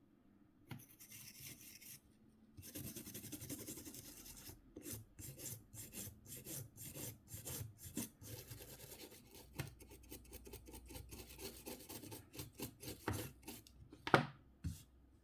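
Rapid rubbing and scraping strokes on a mobile phone's casing, a few strokes a second. A single sharp click near the end is the loudest sound.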